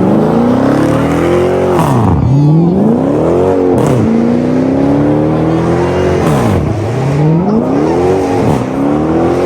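Performance car engines revving hard over and over, the pitch climbing and then dropping back roughly every two seconds, with some revs overlapping.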